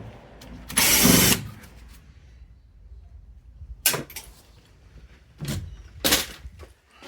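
Two short runs of a power drill, the first about a second in and the longer of the two, the second near the end, with a sharp metallic click and light knocks of metal parts in between.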